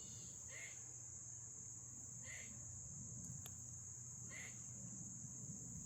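Insects, most likely crickets, chirring as one steady, faint, high-pitched trill, with a few soft brief sounds in the pauses.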